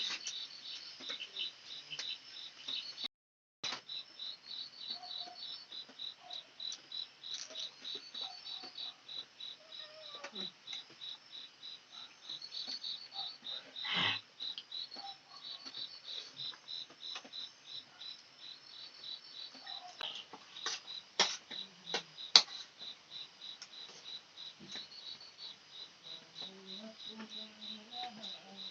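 Crickets chirping in a steady, even pulse of about four chirps a second, with a few sharp clicks and knocks in the middle and later on.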